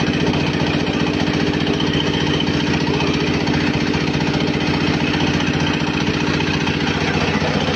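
A 200 kg-per-hour pellet mill running steadily, with a fast, even pulsing hum.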